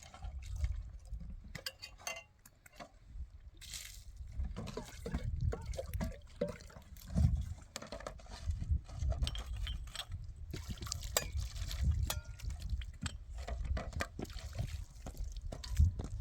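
Dishes being washed by hand in water: splashing and sloshing, with scattered clinks of glass and crockery knocking together.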